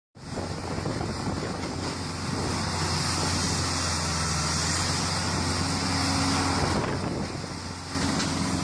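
Heavy machinery engine running steadily under load, with a steady hum and hiss that eases briefly about seven seconds in.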